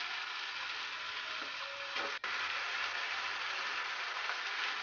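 Raw bone-in chicken pieces and onions sizzling in hot oil in a nonstick pan, stirred with a wooden spatula. The hiss is steady and briefly cuts out about two seconds in.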